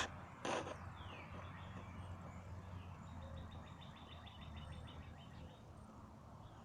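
A sharp knock about half a second in, then a faint low hum of road traffic that fades out near the end, with birds calling: a short falling whistle and a quick trill.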